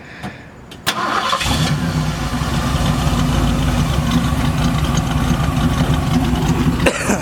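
1951 Ford F100's 302 V8 with a mild cam starting: a brief crank about a second in, then the engine catches and runs steadily at idle through its dual exhaust.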